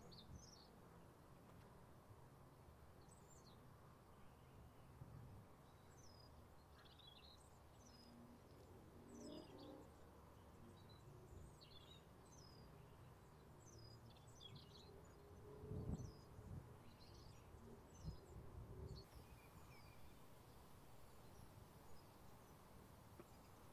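Faint birds chirping and calling in short, scattered notes over a quiet background hiss, with a couple of brief low rumbles like wind on the microphone in the second half.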